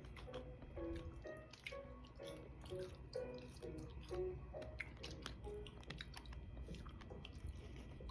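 Close-up chewing and eating sounds, faint, with soft background music playing a simple melody of short notes.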